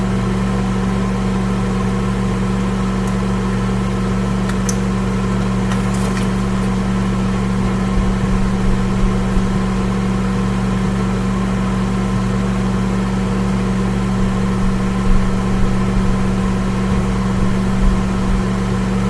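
Microwave oven running on high, heating a cup of water: a steady low electrical hum with the fan whirring, unchanging throughout.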